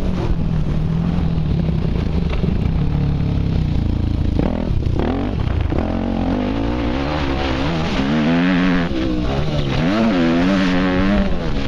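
Motocross dirt bike engine being ridden hard, its pitch climbing and dropping again and again as the throttle is opened and closed, with a brief dip about four and a half seconds in.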